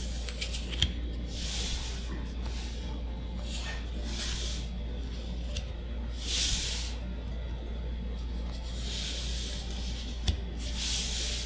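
Magic: The Gathering cards being handled and slid one by one off a stack, a soft swish every two to three seconds, with two light clicks, over a steady low hum.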